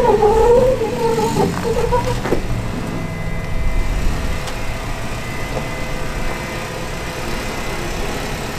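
Off-road Jeep engine running at low revs while crawling, with a wavering whine over it that stops about two seconds in and a single click shortly after; then a steady low engine drone.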